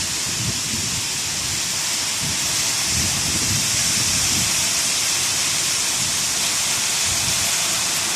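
Hailstorm with heavy rain pelting down in a dense, steady hiss, with strong wind gusting in low rumbles on and off.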